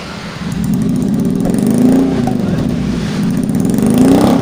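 Suzuki Jimny engine revved twice through its exhaust, the note rising and falling each time.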